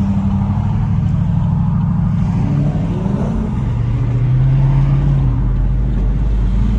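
Car engine and exhaust droning steadily while cruising on the highway. The pitch rises briefly about three seconds in, then settles to a lower note.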